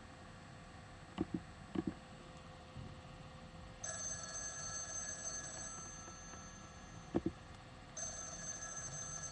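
Telephone ringing with a steady, high multi-tone ring, twice, about four seconds apart, after a few light clicks.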